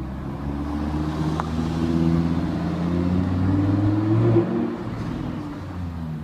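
Car engine passing by, its note growing louder and rising slightly to a peak about four seconds in, then fading away.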